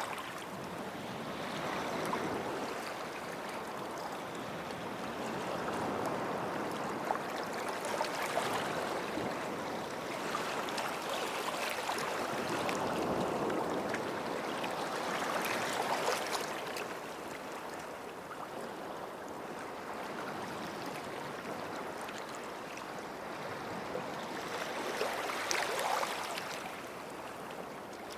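Small sea waves washing up on a beach and drawing back, each wash swelling and fading every few seconds.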